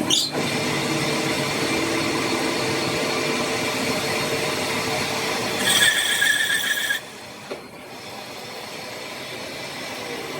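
Workshop machinery running with a steady mechanical noise. A high metallic squeal joins it near the end, then the machine goes much quieter about seven seconds in.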